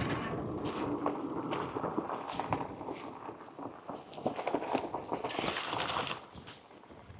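Bicycle in motion: the bike rattles and clicks over a steady rolling noise, which drops quieter about six seconds in.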